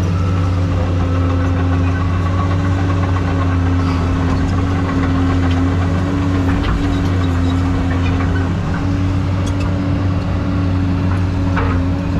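Excavator's diesel engine running steadily at a constant pitch that wavers slightly, with a few light clicks near the end.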